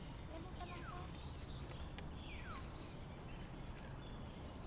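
Birds calling: two quick whistles that slide down in pitch, about a second and a half apart, with a few softer chirps, over a steady low outdoor rumble.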